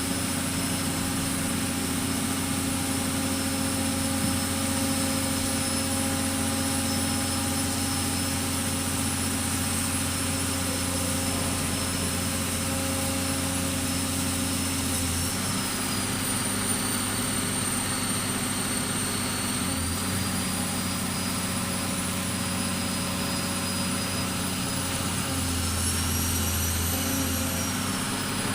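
Pile-driving machine's engine running steadily, with high whining tones that drop in pitch about halfway through and rise again near the end.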